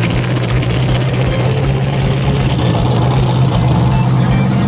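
Pontiac Firebird Trans Am's V8 running steadily at low speed, with no revving, as the car rolls slowly away.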